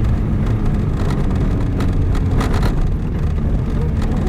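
Motor vehicle driving, its engine running steadily under a low rumble, with scattered knocks and rattles.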